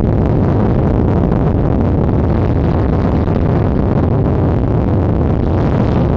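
Steady, loud low rumble of a car on the move, its road and wind noise heard without a break.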